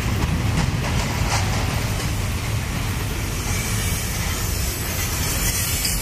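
Union Pacific double-stack container train rolling past close by: the steady rumble of steel wheels on rail, with a few clicks early on and a hiss that grows louder in the second half.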